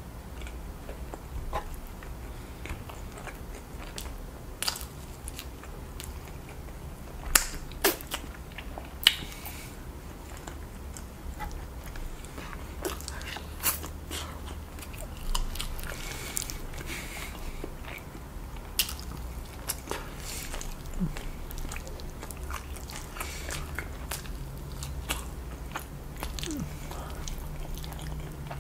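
Close-miked chewing and biting of sauce-covered rotisserie chicken: wet mouth sounds with short sharp clicks and smacks scattered irregularly, the loudest few about 7 to 9 seconds in. A low steady hum runs underneath.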